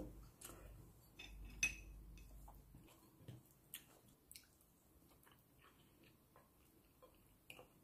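Mostly near silence: faint chewing, with a few soft, scattered clicks of fingers picking pork and rice from a ceramic bowl, the loudest about a second and a half in.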